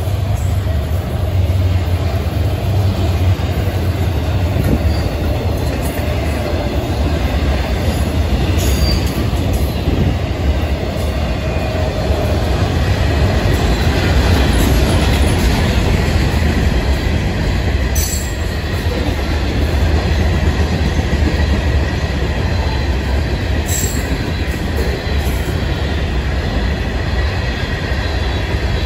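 Florida East Coast Railway freight cars (autoracks, then open-top rock hoppers) rolling past: a loud, steady rumble of steel wheels on the rails.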